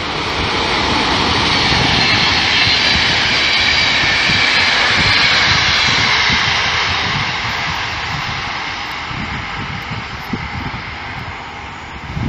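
Express passenger train hauled by an electric locomotive passing at speed: a steady rush of wheels on rail. It swells, holds, then slowly fades over the last few seconds.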